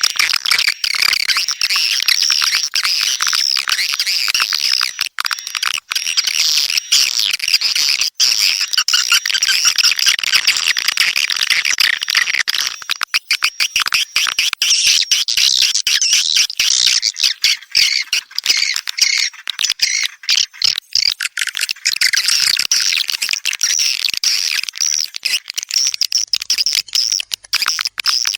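Swiftlets twittering: a dense, continuous flock chorus of rapid high chirps and clicks.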